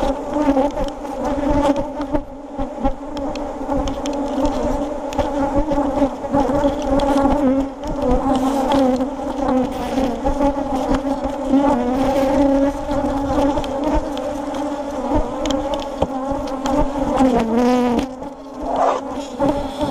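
A mass of agitated honeybees buzzing loudly close around the microphone at an open hive, a steady many-voiced hum. Near the end one bee's buzz dips and rises in pitch as it passes close.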